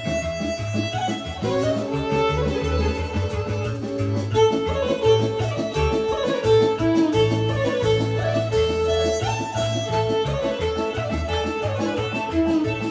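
Serbian kolo folk dance music: a fast violin lead over plucked strings and a steady pulsing bass.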